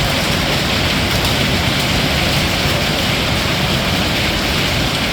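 Hail pelting down in a heavy storm: a loud, dense, steady hiss of stones striking surfaces, without let-up.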